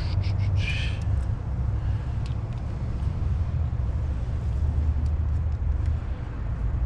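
Metal sockets and tools clinking against each other in the first second, over a steady low rumble that runs throughout.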